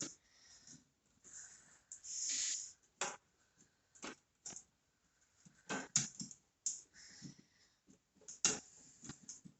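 Hands working on a car charger plug while taping it up: scattered small clicks and handling rustles, with a short rasp of tape pulled off the roll about two seconds in.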